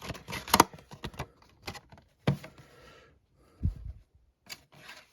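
Hands opening a box of trading cards: scattered rustles and clicks of cardboard and wrapping being handled, with a dull thump a little past the middle.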